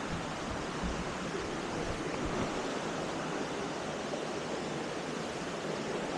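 Waterfall water rushing, a steady even hiss.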